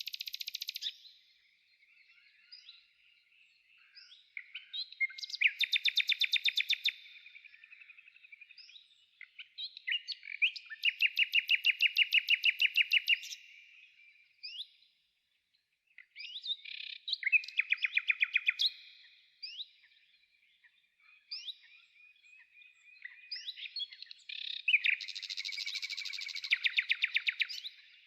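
A small songbird singing: four loud, rapid trills, each about two to three seconds long, with softer chirps in between.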